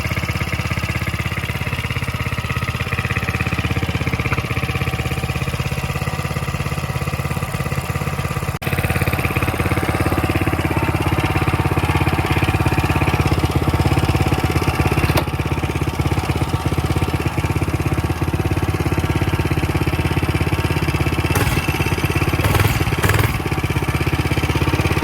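Coleman mini bike's small single-cylinder four-stroke engine running steadily. About a third of the way through, the sound changes abruptly and is a little louder after that.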